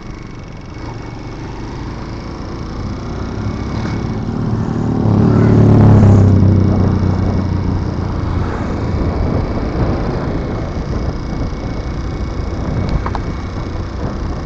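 Road and traffic noise heard from a moving motorcycle. A vehicle's engine grows loud toward the middle, loudest about six seconds in, then fades away.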